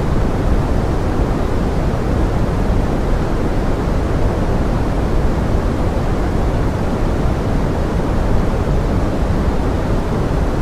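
Steady pink noise with forest rain mixed in: an even, low-weighted rushing hiss that does not change.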